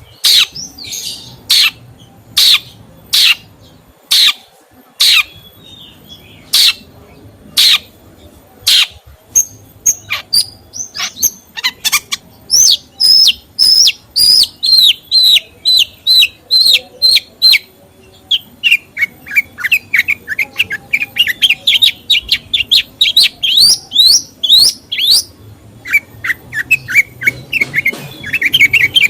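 A songbird calling and singing: loud, sharp single notes about once a second, then from about ten seconds in fast runs of short high chirps that drop in pitch and climb back up.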